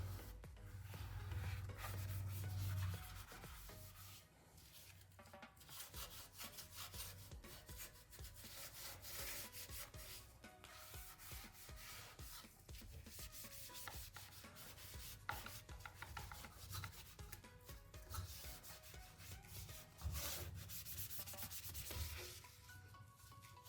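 Irregular rubbing and scrubbing against a hard surface, as in cleaning parts of an old desktop PC, with a low hum in the first few seconds and again near the end.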